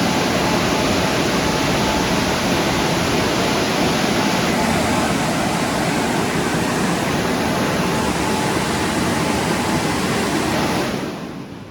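WashTec automatic car wash running: a steady, loud rushing noise that dies away near the end.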